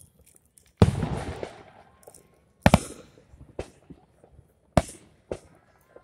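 Aerial firework shells bursting: about five sharp booms a second or so apart, the first and loudest trailing off in a long rolling rumble.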